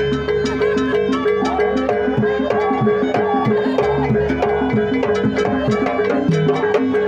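Jaranan pegon accompaniment music: a fast, even rhythm of drum and struck metal percussion over one steady held tone.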